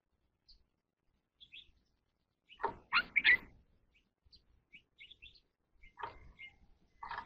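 A caged red-whiskered bulbul singing: soft short high chirps, broken by louder, fuller song phrases about three seconds in, again around six seconds and at the very end.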